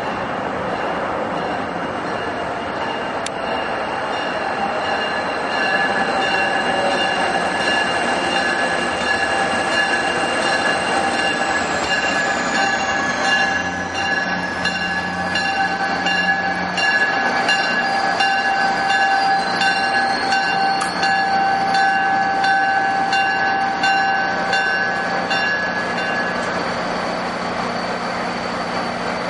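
NJ Transit diesel-hauled commuter train moving past, a steady rumble with several high squealing tones held over it, and a higher tone falling in pitch about midway.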